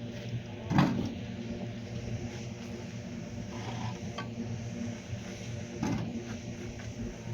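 A steady mechanical hum, like a small motor running, with two dull knocks, one about a second in and one near the end.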